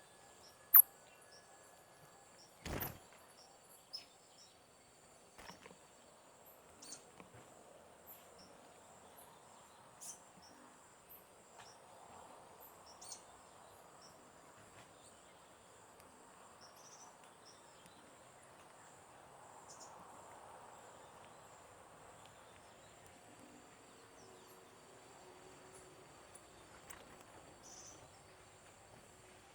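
Forest ambience: a steady high-pitched insect drone with scattered short bird chirps. A sharp chirp comes within the first second, and a single knock about three seconds in.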